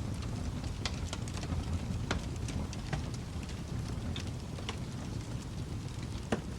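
Fireplace fire crackling: scattered sharp pops over a steady low rumble, with one louder pop near the end.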